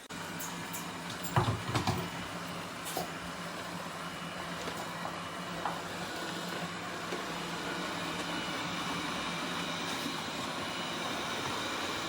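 A robot vacuum cleaner running: steady motor and brush noise with a hum, with a few sharp knocks about one and a half to two seconds in and a couple more later.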